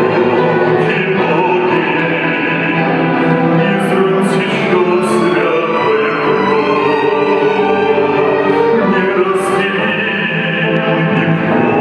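Operatic-style singing over an orchestral accompaniment, with long held notes.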